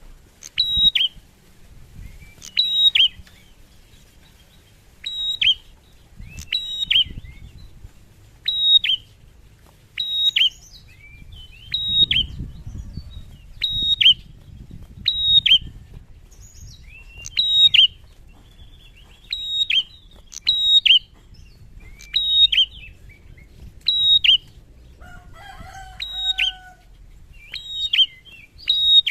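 Male prinia (prenjak) calling loudly and repeatedly, one sharp, high call about every one and a half to two seconds. A brief lower whistle comes in once near the end.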